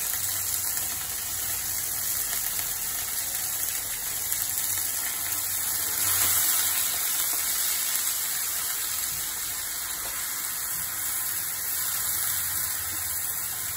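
Coarse onion paste sizzling steadily in hot oil in a frying pan as it is stirred, fried until its raw smell cooks off.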